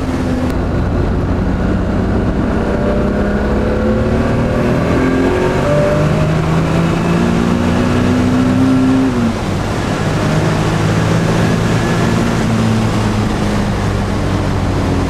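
1991 Nissan 300ZX's twin-turbo V6, fitted with twin GT30R turbochargers at 27 psi, under acceleration. The engine pitch climbs steadily, drops at a gear change about nine seconds in, then climbs again.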